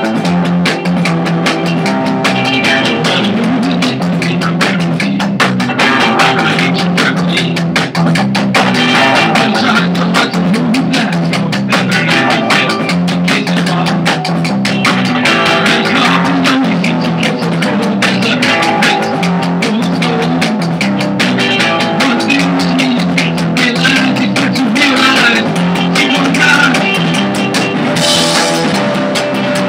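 A rock band playing at rehearsal: drum kit keeping a steady beat under electric guitar and bass.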